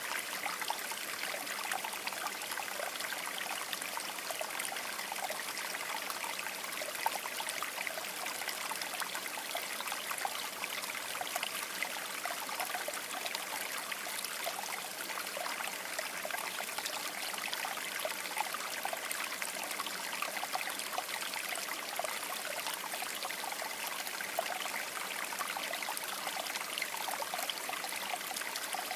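Shallow river water babbling steadily over stones, a constant rush flecked with small splashes and trickles.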